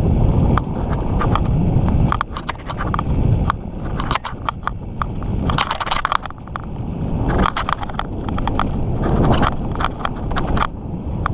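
Mountain bike riding along a dirt trail: a steady low rumble of tyres and moving air, with frequent sharp clicks and rattles from the bike jolting over bumps.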